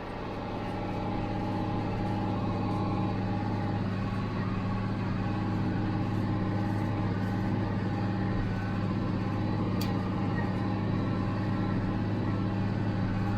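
International Harvester 886 tractor's diesel engine running steadily under load while baling hay. It builds up over the first couple of seconds, then holds an even, unchanging drone.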